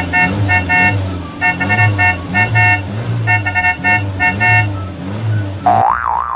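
Cartoon car sound effects: horns beeping in repeated short pairs over engines revving again and again, then a wobbling whistle-like glide near the end.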